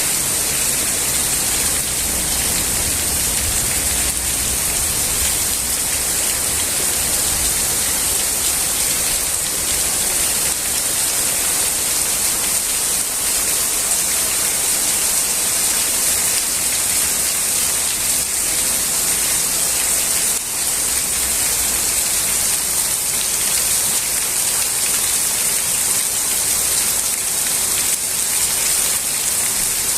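Heavy rain shower falling steadily, a dense even hiss of rain on surfaces. A low rumble sits under the rain for the first several seconds.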